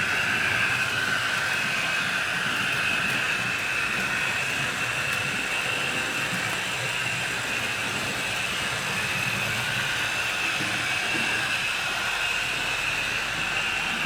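HO scale model train running on the layout: a steady whirr of the small electric motor and wheels on the rails, its pitch wavering slightly.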